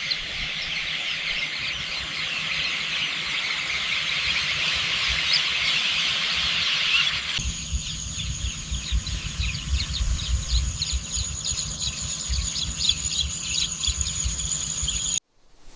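Outdoor field ambience: a dense chorus of fast, high chirps. About halfway through it changes abruptly to sparser chirping over a steady high-pitched drone and a low rumble, then cuts out just before the end.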